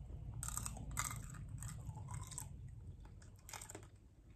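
Close-up mouth sounds of a candied cherry being bitten and chewed: crackly crunching of the hard candy shell, in clusters during the first couple of seconds and again briefly past three and a half seconds.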